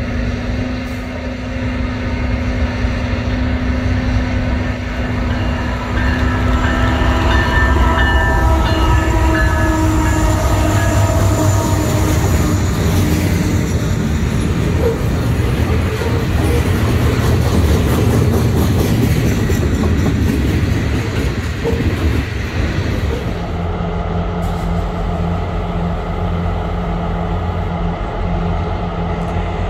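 A diesel-hauled freight train passing a grade crossing: the locomotive's horn sounds for several seconds a few seconds in, then covered hopper cars roll by with a loud, steady rumble. About 24 seconds in this gives way to diesel locomotives idling with a steady low hum.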